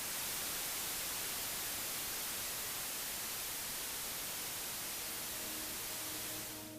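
Steady hiss of white-noise static, even across the range and brightest in the treble. It fades in at the start and fades out near the end.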